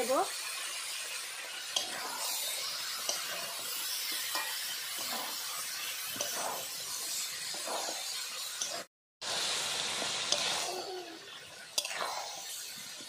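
Chicken and potatoes sizzling in oil in a metal kadai while being stirred and turned with a metal spatula, with scraping strokes against the pan: the sautéing (kosha) stage of a chicken curry. The sound cuts out for a moment about nine seconds in.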